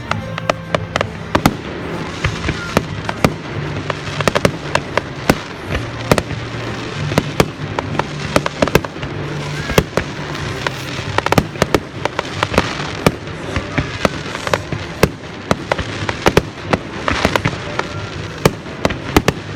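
Fireworks going off in a display: a rapid, irregular string of sharp bangs and crackles, several a second, with music playing underneath.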